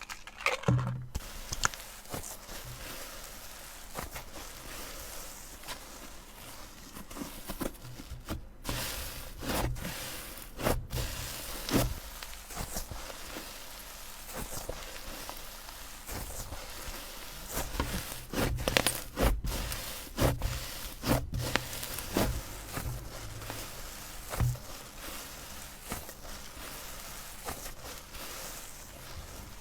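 Slime being squeezed and stretched by hand: irregular sticky clicks, pops and crackles.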